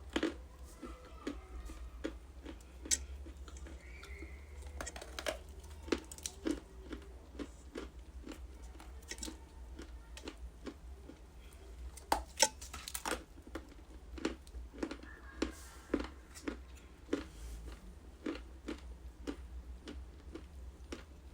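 Ice being bitten and chewed close to the microphone: a steady run of sharp crunches, about two a second, with the loudest bites a little after twelve seconds in.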